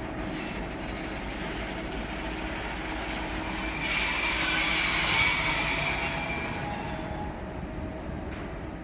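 Freight train wagons rolling past, with a high, steady wheel squeal that swells for a few seconds in the middle and then fades.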